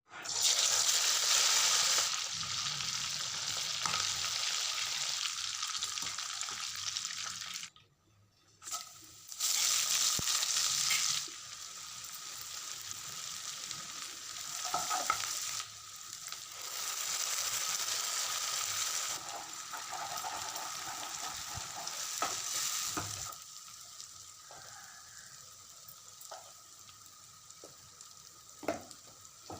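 Food frying in hot oil in a pan, a steady sizzle that is loudest near the start. It drops out briefly about eight seconds in, and a few sharp clicks are heard as it is stirred.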